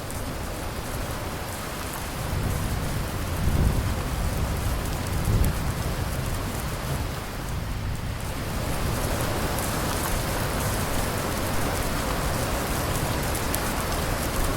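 Steady rain hissing and pattering, with a low thunder rumble swelling and fading in the first half.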